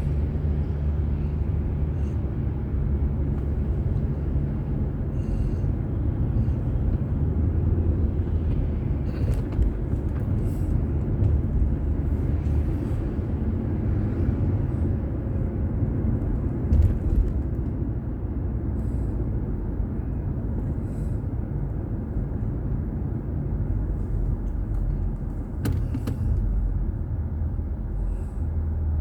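A car driving along city roads, heard through a dashboard camera's microphone: a steady low rumble of engine and road noise, with a few faint ticks and a brief louder bump about halfway through.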